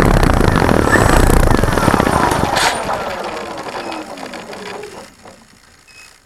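Cessna 170's piston engine running loudly, then winding down over about three seconds with a falling whine and fading away: the engine being shut down.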